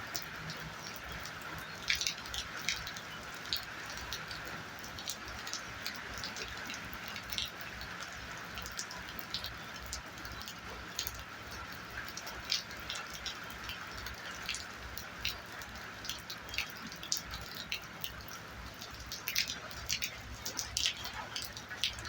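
Heavy rain falling in a steady hiss, with many individual drops striking close by as sharp, irregular ticks.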